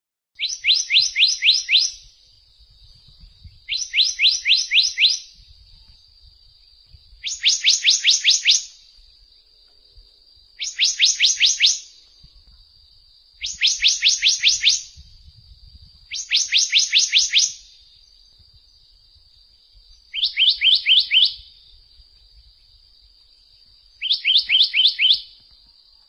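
A bird singing in repeated bursts: eight phrases, each a quick run of about ten sharp whistled notes lasting about a second and a half, coming every three seconds or so. A faint steady high tone runs underneath.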